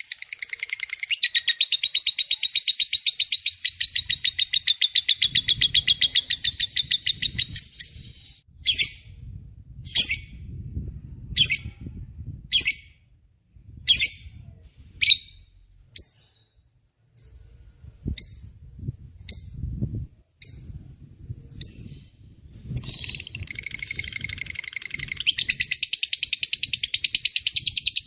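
Lovebird's long chattering song (ngekek): a long, fast run of high, sharp chirps, then single chirps about one a second, then another long fast chatter starting near the end.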